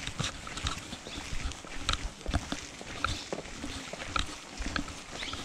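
An animal calling repeatedly in short, pitched notes, about one or two a second, with scattered knocks and taps among them.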